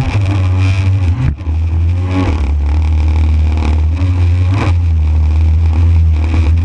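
A JetSurf motorized surfboard's engine running hard, with a brief drop about a second and a half in and short swells in pitch as the throttle changes.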